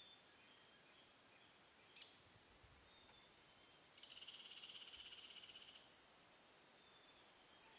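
Faint bird calls over a quiet outdoor hiss: a few short high chirps, a sharp call about two seconds in, then at four seconds a sharp note leading into a fast, even trill lasting almost two seconds.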